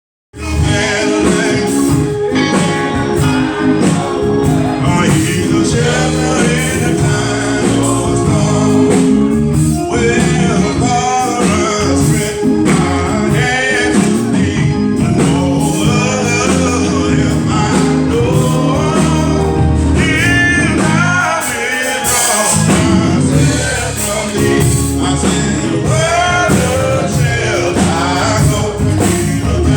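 Gospel praise-and-worship music: voices singing over a live band with a strong, steady bass. The music starts abruptly and dips briefly about two-thirds of the way in.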